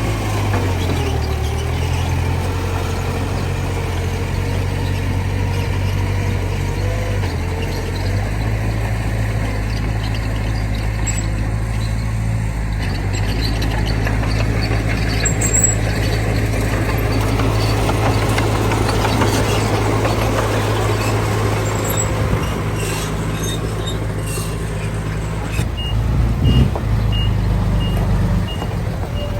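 Heavy diesel engines of earthmoving machinery running steadily, the pitch shifting in the first several seconds as an engine revs and settles. A reversing alarm beeps at an even pace near the end.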